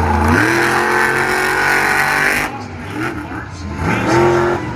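Monster truck engine revving up hard and holding at high revs for about two and a half seconds, then dropping off sharply, with a shorter rev near the end.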